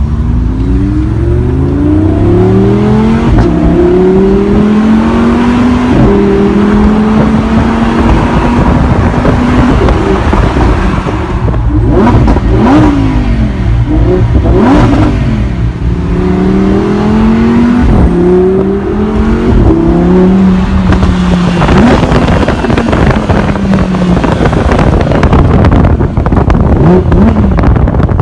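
Lamborghini Huracán Spyder LP610-4's V10 engine accelerating hard through a run of quick upshifts, its pitch climbing and dropping back with each gear change. About halfway through it rises and falls sharply a few times in quick revs and downshifts, then pulls up through the gears again.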